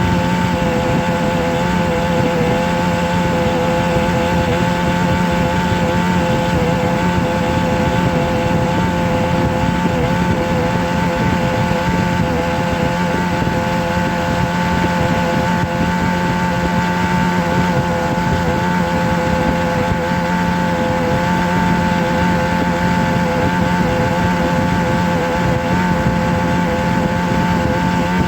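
Steady motor drone with several constant pitched tones over a fast, rough buzz, unchanging in pitch and level throughout.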